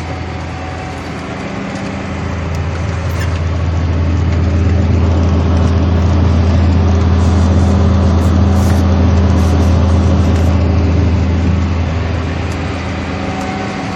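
Tractor engine running steadily under load while pulling a plough, a deep continuous hum that grows louder a couple of seconds in, holds, and eases off again near the end.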